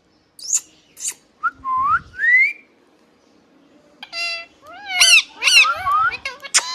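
Pet rose-ringed (ringneck) parakeet whistling and chirping: a few short sharp chirps and rising whistles, a brief pause, then a buzzy call and a quick run of wavering whistled calls near the end.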